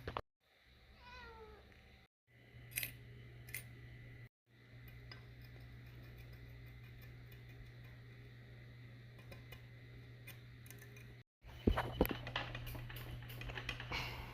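Metal parts and hand tools clinking and knocking during transmission assembly, loudest in a run of clinks near the end, over a steady low shop hum. Earlier there is a short cry that falls in pitch about a second in, then a couple of sharp clicks.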